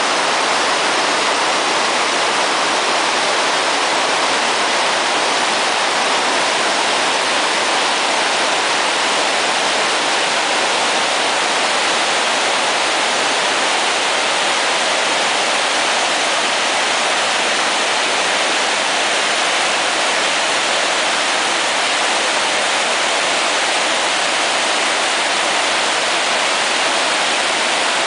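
A large waterfall running in heavy flow: a loud, steady rush of falling water with no let-up.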